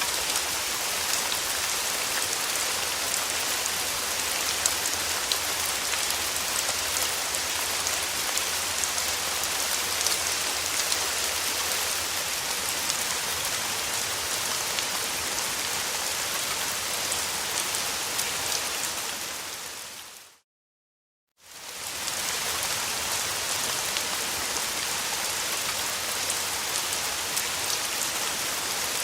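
Steady rain falling, an even hiss with fine drop ticks. About twenty seconds in it fades out to silence for about a second, then fades back in.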